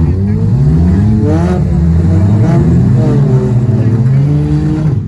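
Race car engine running hard, its note rising and falling about three times as the throttle is opened and lifted.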